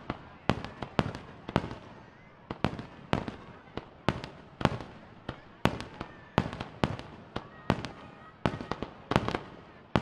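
Aerial fireworks shells bursting in quick succession: sharp bangs about two or three a second, often in pairs or threes, each with an echoing tail.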